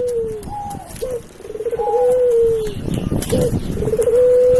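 Dove cooing in repeated phrases, each a quick rolling stutter that runs into a long held coo dropping at its end, with short higher notes between; from a white red-eyed puter, a domestic ring-necked (Barbary) dove.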